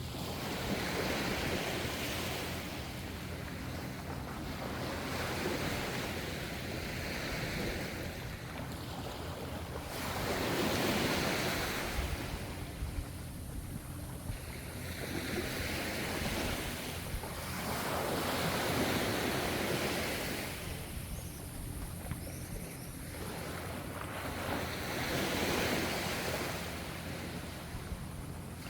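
Gentle ocean waves washing in, the surf swelling and fading about every two to four seconds over a steady low rumble.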